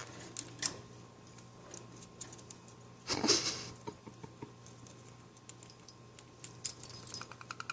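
Lovebird rubbing and tapping its beak on a toy: scattered small clicks and scrapes, with a short louder rustle about three seconds in and a faint, quick run of clicks starting near the end.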